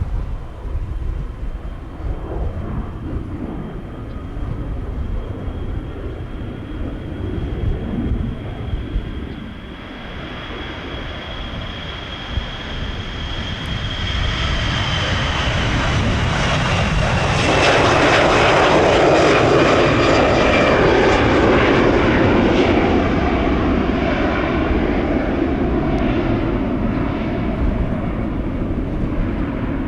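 Jet airliner engines passing by, growing louder to a peak about two-thirds of the way through, then easing off, with a fan whine that slowly falls in pitch as the aircraft goes past. Wind rumbles on the microphone throughout.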